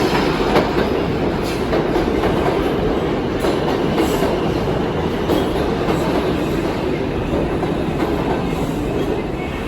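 New York City subway train running on the rails: a steady, loud rumble with occasional clicks of the wheels.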